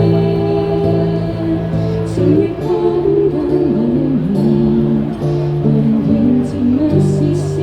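Live band playing a pop song: held bass notes change every second or so under a melody line that slides and wavers in pitch.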